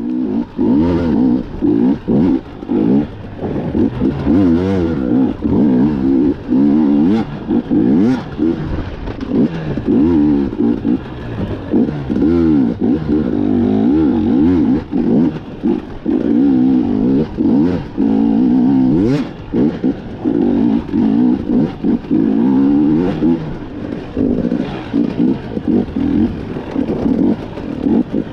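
KTM 250 EXC two-stroke dirt bike engine being ridden hard, its pitch rising and falling as the throttle is opened and shut again and again. Scattered knocks and clatter run through it.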